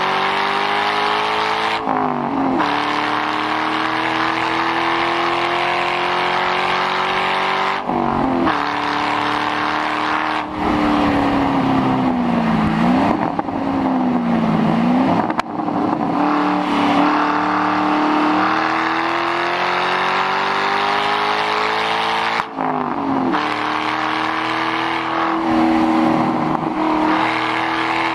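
2006 Mustang GT's V8 through a muffler-deleted exhaust, pulling hard with the note climbing steadily through the gears. The pitch drops sharply at three upshifts, and midway the revs fall and rise again twice as the driver comes off and back on the throttle.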